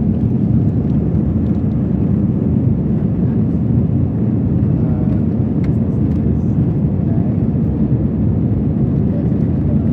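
Steady cabin noise inside an Airbus A321 airliner: an even, low rush of engine and airflow noise with no change in level.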